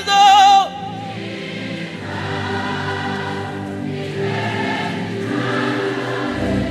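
Live gospel worship music: a loud held sung note with vibrato ends within the first second, then soft sustained chords continue with voices swelling twice.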